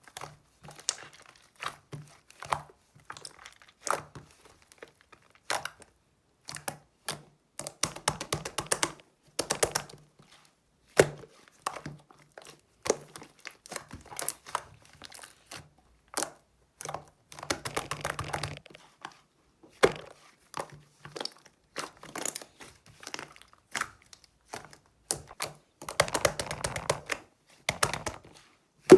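Slime being pressed, stretched and poked by hand: scattered sharp sticky pops and clicks, with denser crackling runs a few times.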